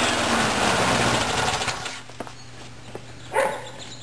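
Briggs & Stratton lawn mower engine running, then shut off about a second and a half in and coasting down to a stop, followed by a few faint clicks.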